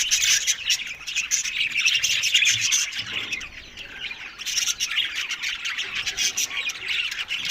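Budgerigars chattering: a dense run of quick chirps, warbles and clicks. It eases off about three seconds in and picks up again a second or so later.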